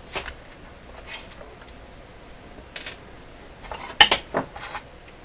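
A few sharp clicks and light knocks of small hard parts being handled, with a louder cluster of clatter about four seconds in.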